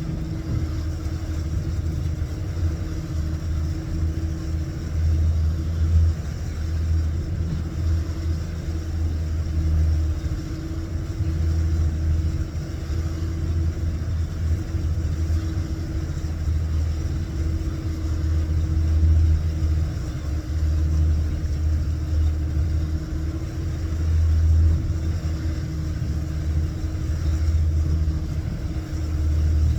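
Fishing boat's engine running steadily, a continuous low rumble with a constant hum above it.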